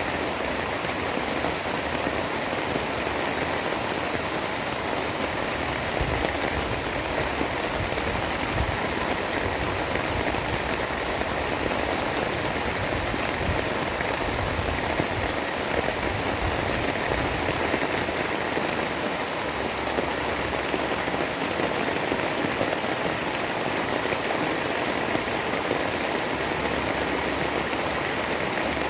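Steady rain: an even, unbroken hiss of falling water with faint scattered drop ticks and no change in strength.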